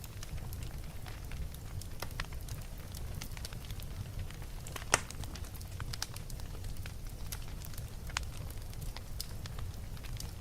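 Wood fire burning in a fireplace, crackling with frequent small irregular pops and one louder pop about five seconds in, over a steady low rumble.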